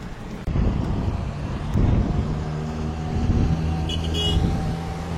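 A motor running with a steady low hum that settles in about two seconds in.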